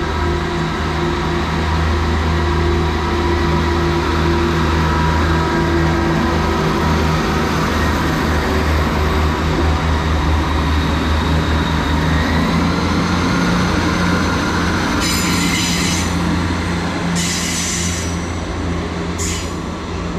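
A pair of coupled Class 158 diesel multiple units pulling out of the station, their underfloor diesel engines running with a steady low drone. Three brief high-pitched wheel squeals come in the last five seconds.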